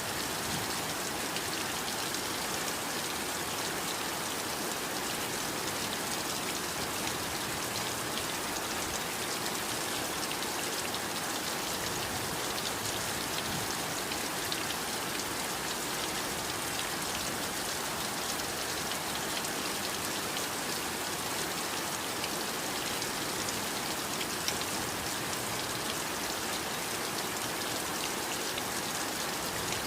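Heavy rain falling steadily: a dense, even patter of many small drops.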